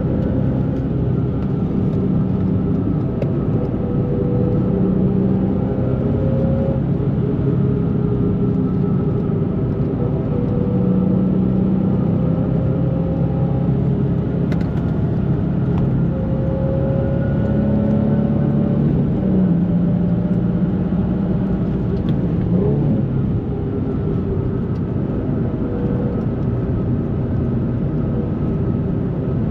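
2004 Nissan 350Z's 3.5-litre VQ35DE V6 with a Z1 dual exhaust, Z1 intake and JWT pop charger, heard from inside the cabin while driving. The engine drones steadily, its note rising slowly three times as the car pulls, then dropping back about two-thirds of the way through.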